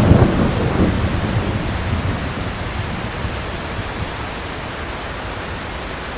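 Thunder rumbling and dying away over the first two or three seconds, leaving heavy rain falling steadily.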